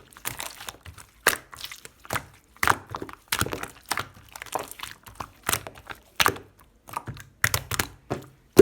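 Pink pearl slime being squished and folded by hand, making irregular clicky pops and crackles every half second or so, with a louder thump at the very end.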